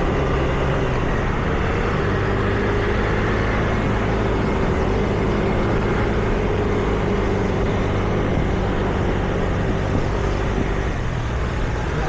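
Steady street traffic, with vehicle engines running close by.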